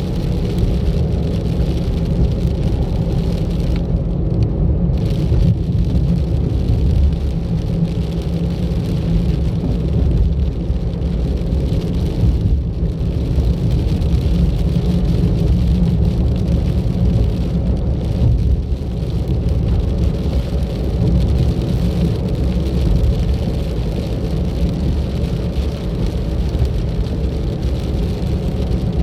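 Car driving along a road: a steady engine and tyre-on-road rumble, heaviest in the low end, with no sudden events.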